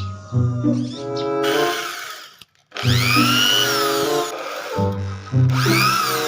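Background music with steady held notes. Three times, a power tool whirs over it as a noisy burst whose pitch rises and falls.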